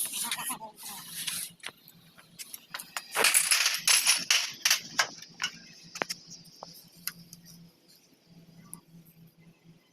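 Metal tools and engine parts clinking and knocking against each other, with a longer scraping rustle about three seconds in, then sparse light taps.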